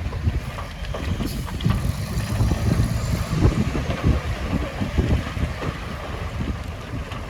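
Heavy earthmoving machinery's diesel engine rumbling at work, with wind buffeting the microphone.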